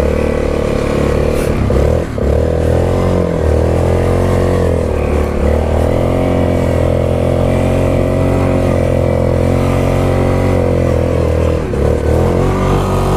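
Yamaha Grizzly 660 ATV's single-cylinder four-stroke engine running hard under throttle while sliding figure-eights in snow. It briefly drops in revs and picks back up about two seconds in and again near the end.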